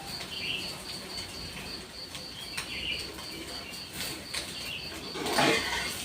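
Birds chirping in short calls over a steady high pulsing tone, with one louder knock or clatter about five seconds in.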